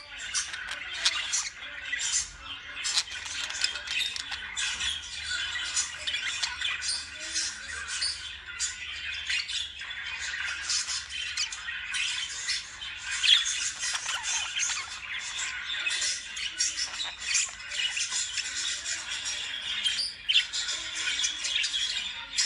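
Lovebirds chattering and squawking without pause, many short shrill calls overlapping.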